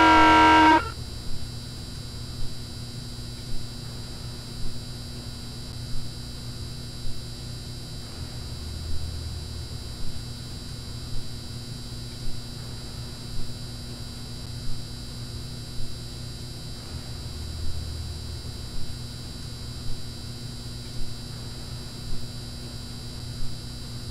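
A pitched sound sliding down in pitch cuts off abruptly in the first second, leaving steady electronic hum and hiss: a dead broadcast signal on a compromised alert system. A sharp tick sounds roughly once a second.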